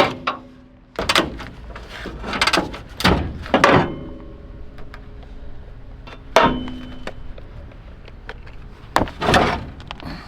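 Irregular knocks and clanks of metal parts being worked loose and handled on an old pickup truck being stripped, a quick cluster of strikes in the first four seconds, then single knocks about six and nine seconds in, two of them ringing briefly.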